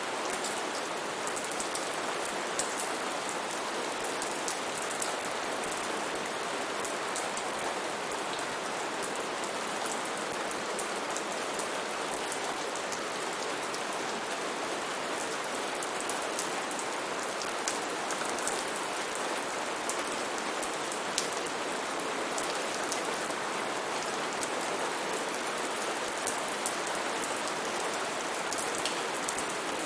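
Steady heavy rain falling on leaves and surfaces, a constant hiss with many separate drops ticking sharply through it.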